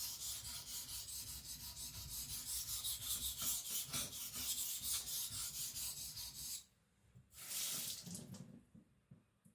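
Steel knife blade stroked rapidly back and forth on a wet whetstone, a steady run of scraping strokes, several a second. The strokes stop about two-thirds of the way through, followed by one more short scrape.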